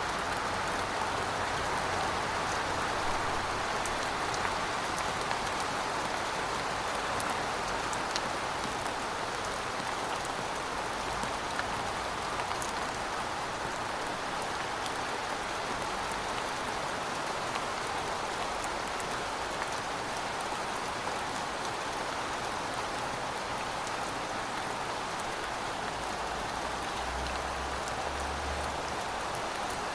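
Steady rain falling on a surface, an even patter with scattered drop ticks.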